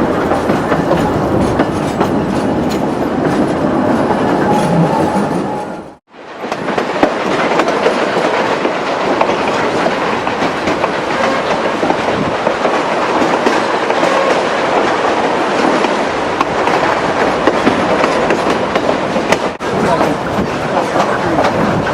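Durango & Silverton steam train rolling along the track, its wheels clattering on the rails, with a brief break in the sound about six seconds in.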